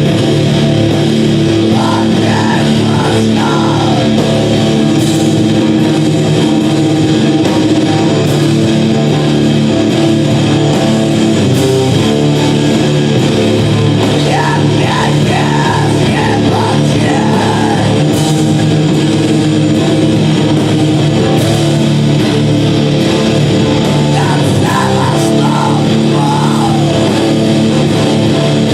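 Loud, heavily distorted rock music played live, with electric guitars holding dense sustained chords. A wavering higher line, voice or bent guitar notes, comes in three times over it.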